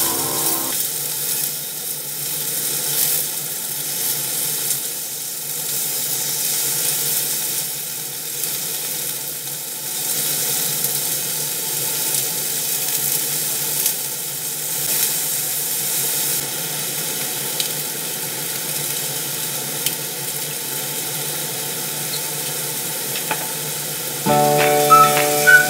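Chicken breast slices sizzling steadily as they pan-fry in hot oil. Background music comes in near the end.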